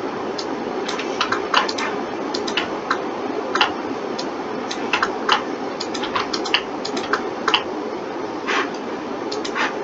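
Irregular clicks of a computer mouse and keyboard, sometimes two or three in quick succession, over a steady background hiss.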